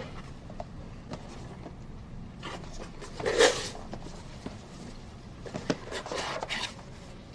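A few soft rustles of something being handled, the loudest about three and a half seconds in, over quiet room tone.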